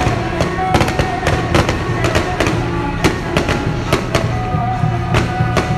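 Firecrackers going off in an irregular run of sharp bangs, several a second, over loud music with held, steady notes.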